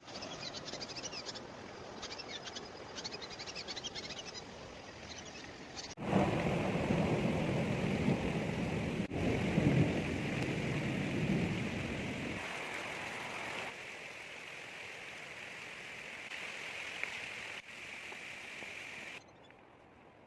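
Rain falling, in a few edited stretches that cut sharply from one to the next. It is heaviest for about six seconds in the middle, where it also carries a low rumble.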